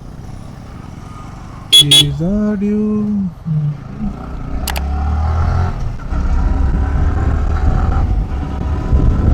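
Vehicle horn toots about two seconds in. Then a motorcycle's engine and wind noise build up and grow louder as the bike gets going.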